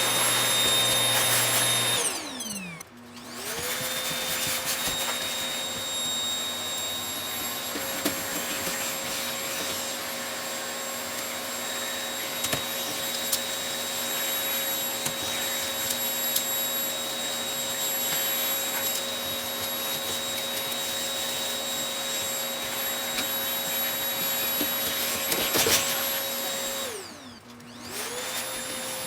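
Vacuum cleaner motor running with a steady whine, broken by occasional sharp clicks. Twice, about two seconds in and again near the end, the motor winds down in pitch and then spins back up to full speed.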